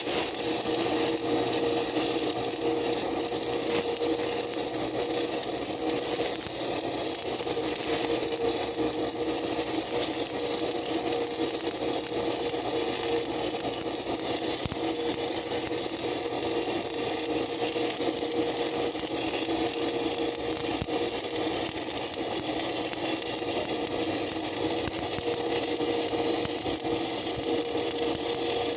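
Stick-welding arc burning a long continuous bead: a steady crackling hiss with a constant hum underneath.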